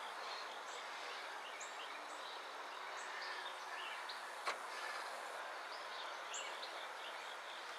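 Faint outdoor background hiss with many short, high bird chirps scattered throughout, and one sharp click about four and a half seconds in.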